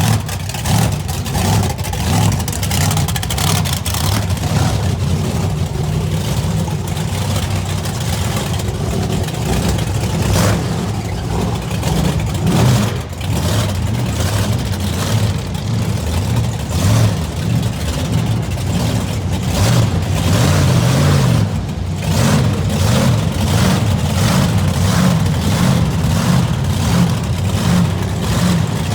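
Monster truck engine running loud, its revs rising and falling.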